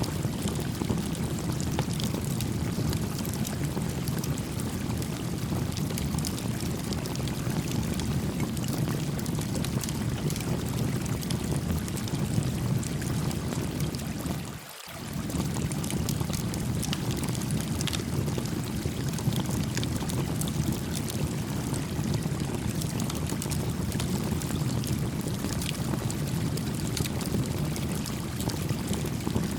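A gently flowing stream with a small campfire crackling over it in scattered faint pops. The sound dips briefly about halfway through.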